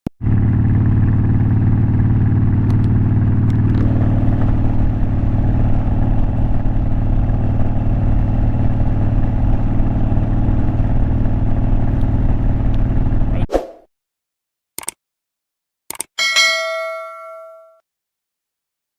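Harley-Davidson Twin Cam 88 V-twin engine running steadily, cut off abruptly about thirteen seconds in. Then come a couple of sharp clicks and a single bell-like ding that rings out over about a second and a half.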